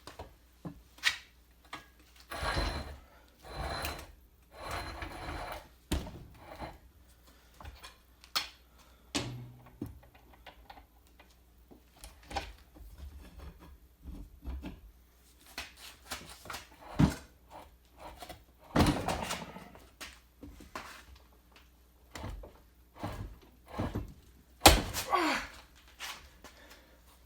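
Irregular clanks, knocks and thunks as a wrench is worked on a seized front bolt on a Mazda rotary engine's eccentric shaft, the engine shifting against a wooden workbench. Among them are a few longer scraping spells.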